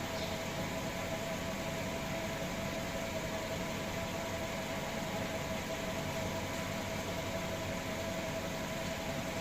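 Steady, even machine noise with a constant hum: a hiss across all pitches and one steady tone, running without change.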